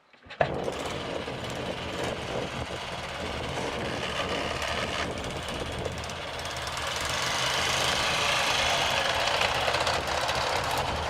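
Restored antique motorcycle's engine running steadily, picking up a little about seven seconds in.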